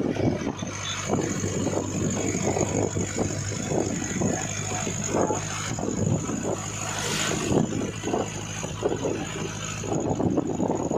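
A road vehicle driving steadily, with a constant low engine hum under an irregular, flickering rush of road and wind noise.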